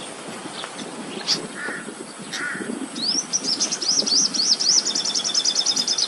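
Birds calling: two short harsh caw-like calls, then from about halfway a rapid run of high, repeated chirps that speeds up into a trill. A low rumbling background runs underneath.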